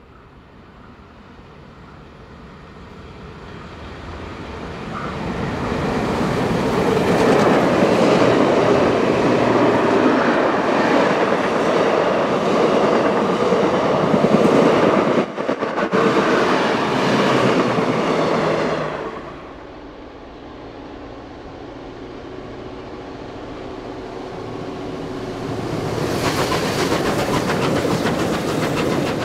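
Steam-hauled passenger train approaching and passing at speed, its wheels clattering over the rail joints as the carriages run by. The noise builds over the first seven seconds, stays loud until it falls away suddenly at about nineteen seconds, and rises again near the end.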